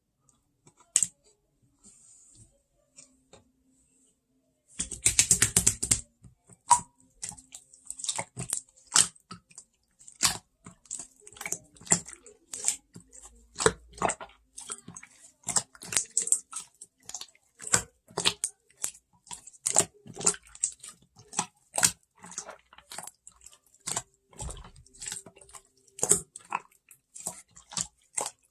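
Slime being pressed and squeezed by hand, giving a run of sharp, irregular crackling clicks. There is a denser burst of crackles about five seconds in, then clicks roughly once or twice a second.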